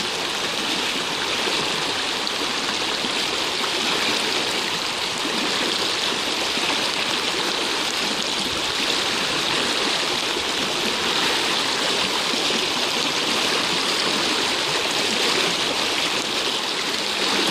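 Steady rush of a mountain creek in flash flood, fast floodwater running high, about a foot below the bank and rising.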